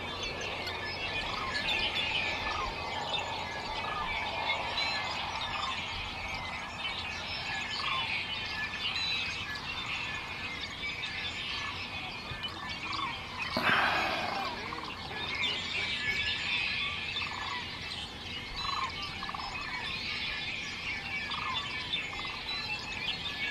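Many birds calling at once, a dense chorus of short chirps and twitters, with one louder call a little past halfway.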